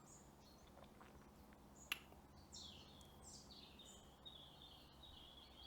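Faint songbird song: a run of high chirping notes that step down in pitch, starting about two and a half seconds in, with a single sharp click just before.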